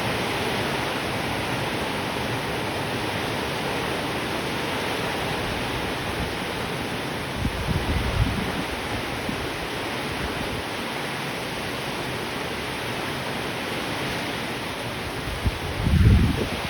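Steady rain falling. Two brief low rumbles break through it, one about halfway and a louder one near the end.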